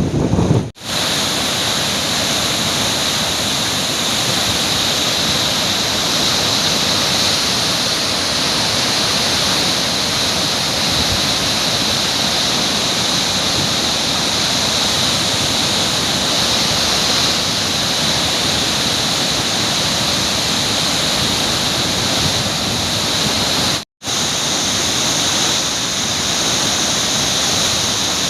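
Floodwater rushing through the Singur dam's open spillway gates: a loud, steady roar of falling water, broken twice by brief dropouts where the footage is cut.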